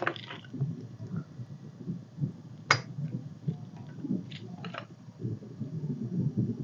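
Handling noise from working a component into a circuit board: a low rumble of movement, one sharp click a little under three seconds in and two fainter clicks about four and a half seconds in.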